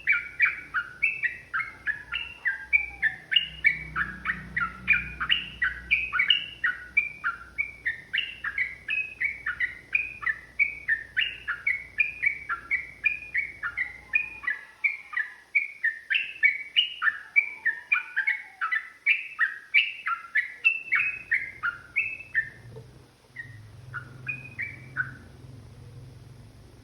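Yellow-vented bulbul (trucukan) singing a long, rapid run of short chirping notes, about three a second. The song thins to a few scattered notes and stops a few seconds before the end.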